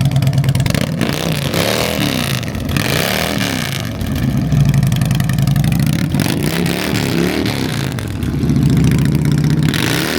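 Motorcycle engine idling and being revved several times, the pitch climbing and falling back with each blip of the throttle.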